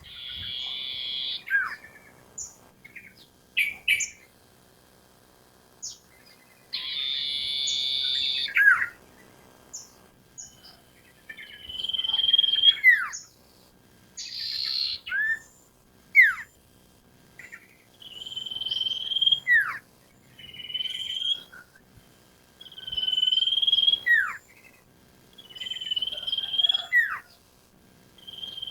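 Sirtu songbird calling over and over. Each phrase is a buzzy, rasping note followed by a sharp downward-sliding whistle, repeated every two to three seconds.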